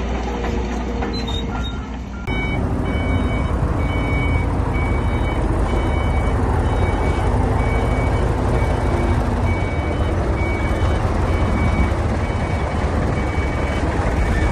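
A heavy construction machine's back-up alarm beeping at a regular pace over a low diesel engine rumble as it reverses. Before that, for about two seconds, only the engine running with light clanks.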